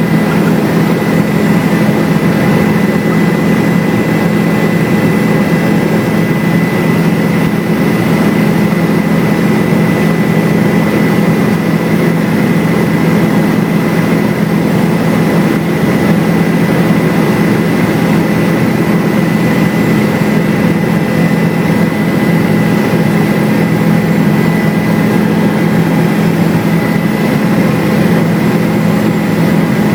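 Helicopter engine and rotors heard from inside the cabin: a loud, steady drone with a thin, steady high whine over it.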